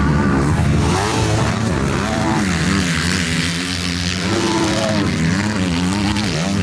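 Motocross motorcycle engines running on track, their pitch repeatedly rising and falling as they rev up and down.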